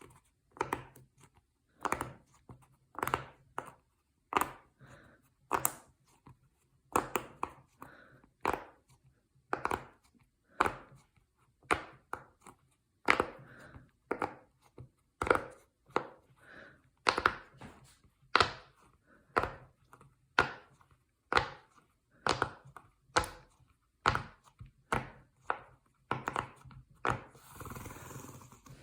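Silicone pop it fidget toy bubbles being pressed one after another, each giving a short dull pop, at an uneven pace of about one to two pops a second. Near the end there is a longer rustling sound.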